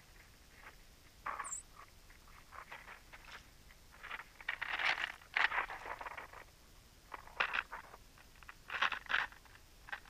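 Small songbirds scratching and pecking for sunflower seeds in snow close to the microphone: irregular short scratchy, crunching rustles, some in quick clusters, with one brief high note about one and a half seconds in.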